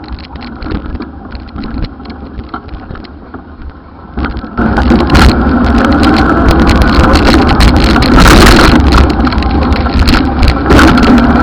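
Wind buffeting the microphone with road rumble while riding, jumping sharply louder about four and a half seconds in.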